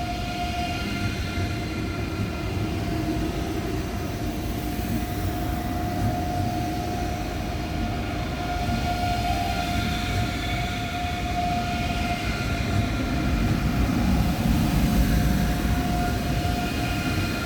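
ICE high-speed electric train moving slowly at a platform, a steady electric whine over a continuous low rumble that grows louder near the end.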